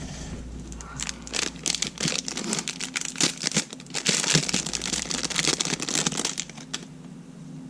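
Crinkling and rustling of something being handled, with many small irregular clicks and crackles, busiest through the middle and tapering off near the end.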